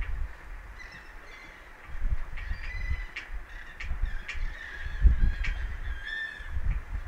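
Birds giving a series of short, honking calls, several overlapping, over the uneven low rumble of wind buffeting the microphone.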